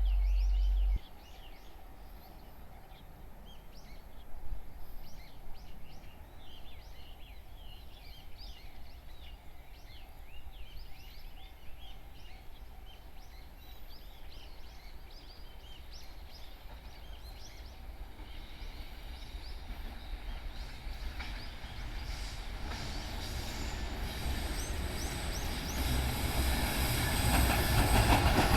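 Small birds chirping at first, then the rumble of an approaching freight train hauled by an EH500 electric locomotive builds steadily through the second half, loudest at the end. A second of low, wind-like noise opens the clip.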